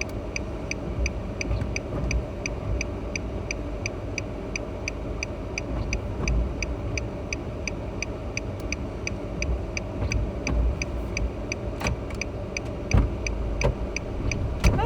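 Car cabin with a steady low road rumble and a rapid, evenly spaced dashboard tick, about two and a half a second. A few short knocks come in the second half.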